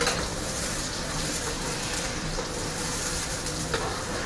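Fermented soybean paste and pork sizzling in a wok over a gas flame, a steady hiss, with a short knock of the ladle on the wok near the end.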